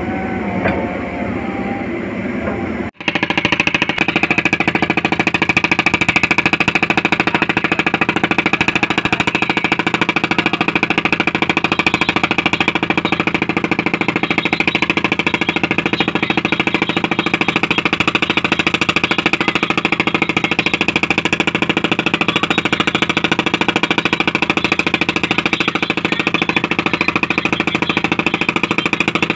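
A machine, likely an engine or motor, running steadily with a fast, even pulse. It starts abruptly about three seconds in, after a brief drop-out.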